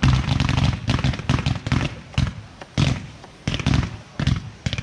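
Consumer fireworks batteries firing in rapid volleys of sharp bangs and crackles, several a second, starting suddenly, with short lulls about two and a half and four seconds in.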